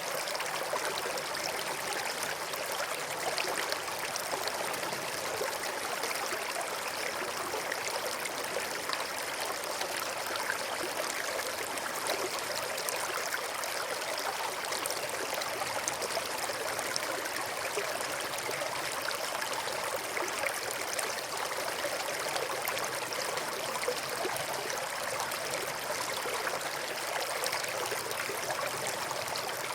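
River water flowing over and between rocks, a steady rushing babble of a stream.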